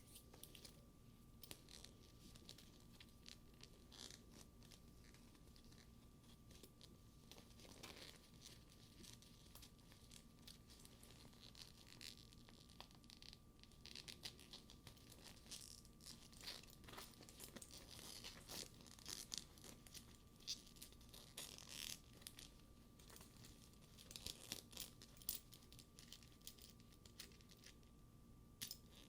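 Hands handling the straps and buckles of a studded faux-leather bag: faint crackly rubbing of the sticky leather with small ticks and taps. It grows busier and louder about halfway through.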